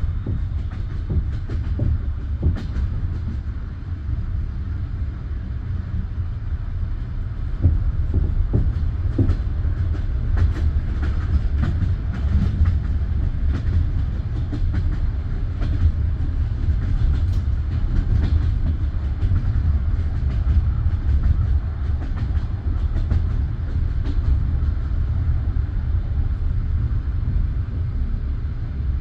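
Passenger train carriage running on the rails: a steady low rumble with irregular clicks and knocks from the wheels over rail joints and points.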